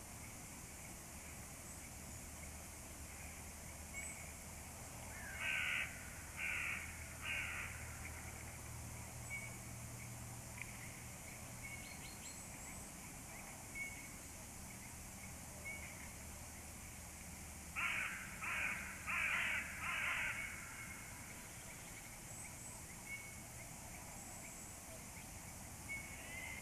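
Crows cawing: three harsh caws in a row, then after a long pause a run of four.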